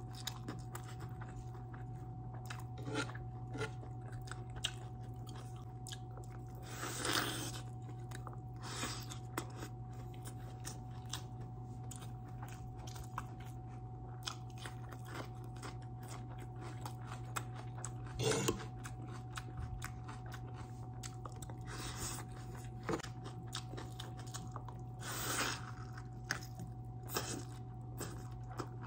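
A person chewing and biting into a barbecued turkey leg and rice close to the microphone: soft wet chewing with small clicks throughout and a few louder bites or crunches, over a steady low hum.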